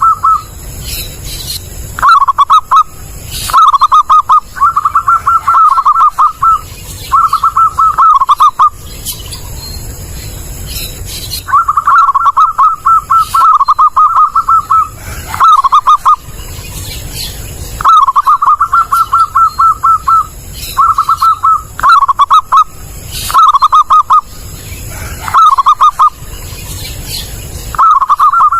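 Zebra dove (perkutut) cooing loudly: many phrases of quick rolling notes at one pitch, each a second or two long, with short pauses between them and one longer pause about a third of the way through.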